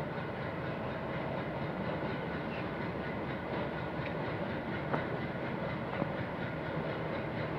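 A train moving slowly through a tunnel toward the portal, heard as a steady rumble with a few sharp wheel-on-rail clicks near the middle.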